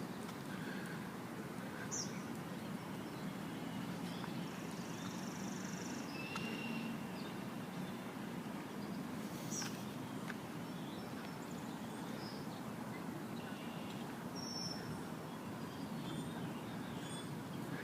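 Outdoor ambience: scattered short bird chirps and calls over a steady low background rumble.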